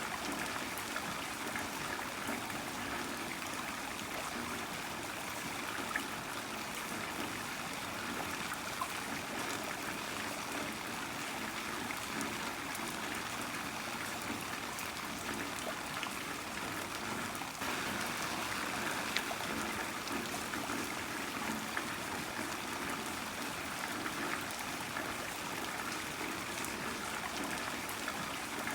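Heavy rain falling steadily, an even rushing noise flecked with individual drop ticks. The sound shifts slightly about two-thirds of the way in.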